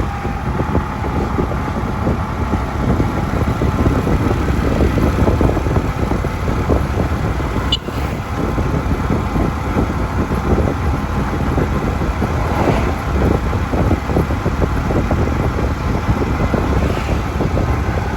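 Steady engine and road noise of a vehicle driving.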